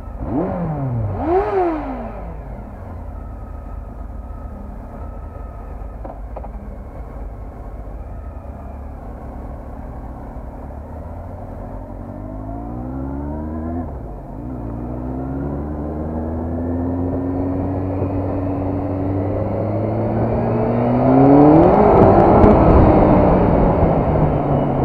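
Honda CBR400RR inline-four motorcycle engine: two quick throttle blips, a steady stretch, then rising in pitch as it accelerates through the gears. It is loudest about 22 seconds in, then the pitch falls away.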